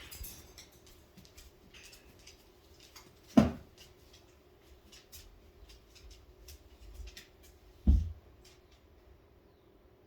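Faint scattered clicks and light scratching from a pet bird moving about its cage, broken twice by a short dull thump, about four and a half seconds apart.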